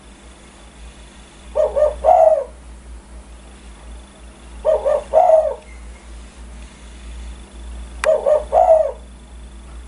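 Spotted dove cooing: three phrases about three seconds apart, each a few quick low coos ending in a longer one.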